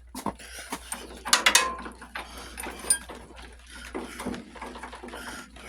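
Hand tools working on a lawn tractor's metal parts: irregular clicks and clanks, with a louder metallic rattle about a second and a half in and a sharp click near three seconds.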